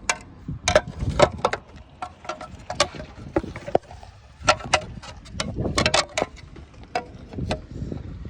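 Irregular sharp plastic clicks and knocks from handling and refitting a motorcycle's fuse box, some louder clusters about halfway through and near the end.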